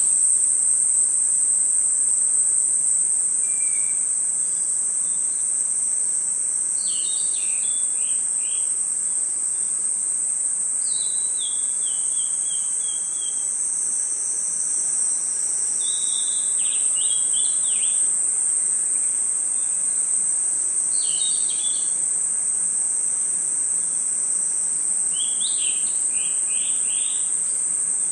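Night chorus of crickets and other insects: a steady high-pitched trill, with a short run of chirps breaking in about every four or five seconds.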